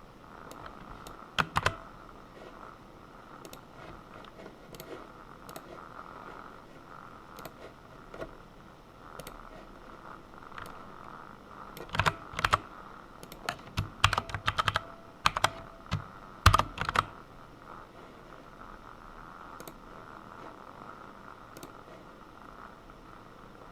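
Typing on a computer keyboard while coding: a couple of keystrokes, then a quick run of keys about halfway through, with scattered single clicks in between.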